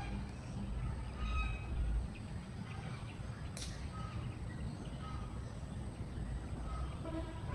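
Outdoor ambience of short bird calls, possibly domestic fowl, repeating every second or so over a low rumble. One sharp click comes about three and a half seconds in.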